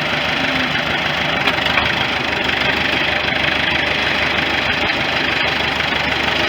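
Engine of a 1973 International 3444 loader tractor running steadily in low gear as the tractor creeps slowly forward.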